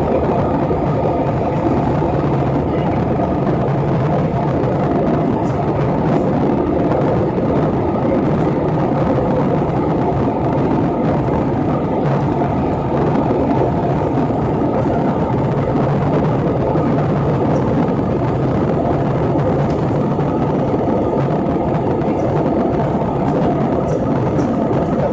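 Steady, loud rumble of an airliner cabin in flight.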